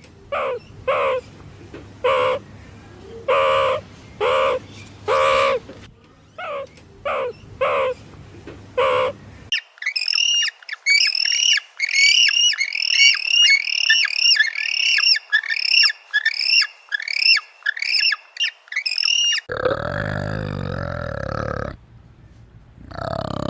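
Three different animal sounds in turn. First a run of short, repeated pitched calls. Then a fast string of high, downward-sweeping chirps for about ten seconds, followed near the end by a low, rough grunt.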